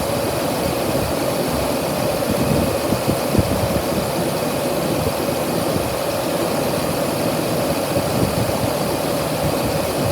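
A 2008 truck engine assembly running steadily at idle.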